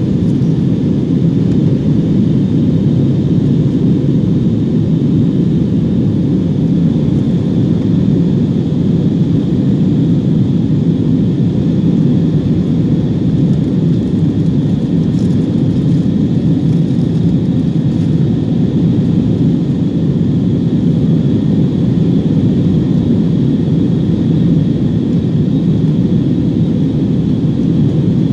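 Airbus A321-200 cabin noise from a rear window seat: a loud, steady rush of jet engines and airflow, with a faint high whine above it, typical of an airliner in flight after takeoff.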